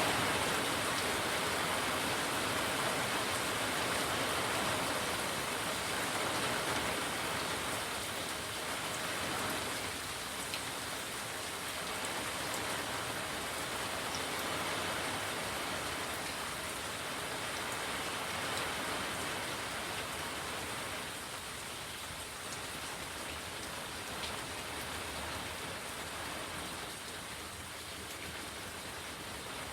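Steady rain falling, an even hiss with scattered individual drops ticking, growing a little softer over the half-minute.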